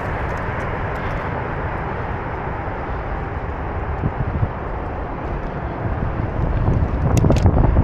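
Steady rushing noise of riding a bicycle, wind buffeting the microphone along with the tyres rolling on the trail. A deeper rumble swells near the end.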